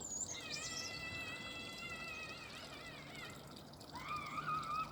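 Children shrieking at a distance: one long, high-pitched scream that wavers and fades out, then a second shorter, rising one near the end, over a steady wash of river water.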